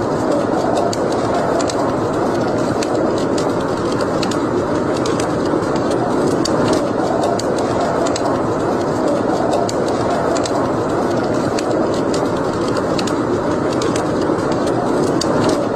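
Wood fire burning in a fireplace: a steady, loud rushing sound with many small sharp crackles scattered irregularly through it.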